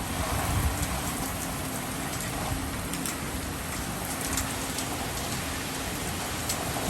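Hurricane-force wind howling with heavy rain: a steady rush of noise with fine raindrop ticks and uneven low buffeting of wind on the microphone.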